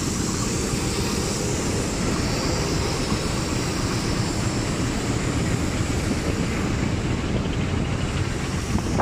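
Freight train passing close by: diesel locomotives running past, then covered wagons rolling along the track, making one steady, loud noise.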